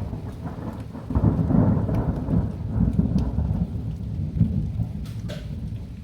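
Thunder rolling: a low rumble sets in about a second in, swells in several pulses and slowly eases off. Rain falls with a few scattered drop ticks.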